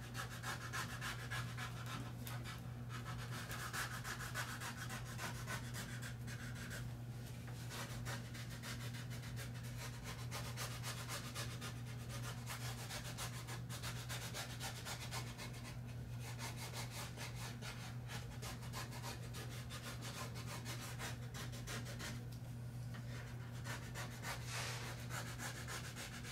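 A squeegee rubbing back and forth over a self-adhesive insignia, burnishing its edges down onto the model's surface in many quick, scratchy strokes. A steady low hum runs underneath.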